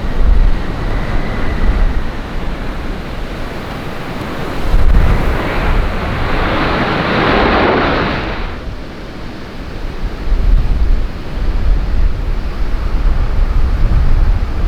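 Strong wind buffeting the microphone in gusts, a low rumbling rush. In the middle a louder, brighter rushing noise builds and then cuts off suddenly.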